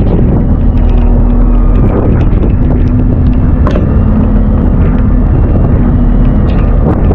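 Strong wind rumbling on the microphone aboard a small fishing boat, over a steady motor hum that comes and goes, with scattered sharp taps.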